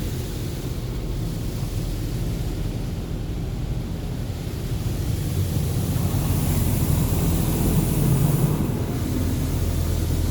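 Ryko Radius touchless car wash gantry running and spraying water over a minivan, heard from inside the vehicle as a steady rumble and hiss. The spray hiss grows louder about six seconds in and drops away again near nine seconds.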